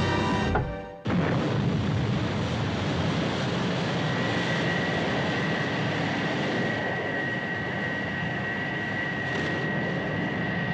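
Music fading out, then steady aircraft engine noise, with a thin high whine coming in about four seconds in.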